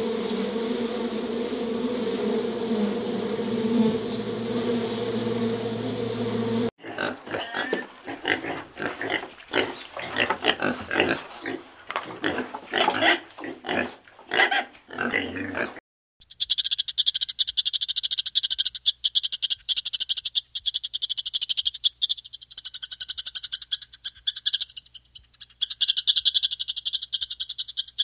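Honeybees buzzing steadily at a hive entrance. About 7 seconds in this cuts to a pig grunting in short, uneven bursts. After a brief gap about 16 seconds in comes a rapid, high-pitched pulsing trill that drops away briefly twice.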